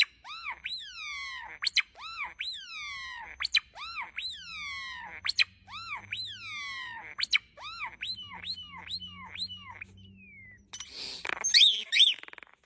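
A bird calling over and over: a long run of falling, whistled calls, each sweeping down in pitch, with sharp clicks between them. The calls come quicker after about eight seconds, and near the end a short harsh burst is followed by quick chirps.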